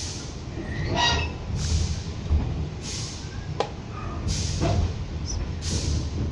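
Children's railway train running along the track, heard from an open carriage: a steady low rumble with a regular hissing swish about every second and a half, and a single short click partway through.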